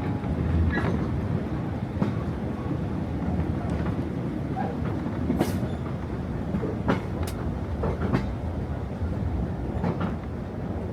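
Heritage railway carriage running along the track: a steady low rumble, with irregular clicks and knocks from the wheels.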